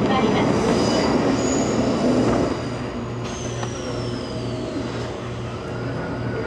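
E257 series limited express train standing at a station platform, heard from inside its passenger car: a steady hum that pulses on and off, with a loud rushing hiss for the first two and a half seconds that cuts off suddenly. A faint falling whistle follows.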